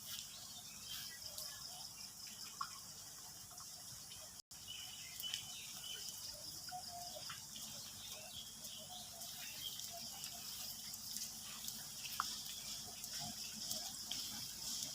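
Steady hiss of light rain with fine patter and a few sharper drips. A brief dropout comes about four and a half seconds in.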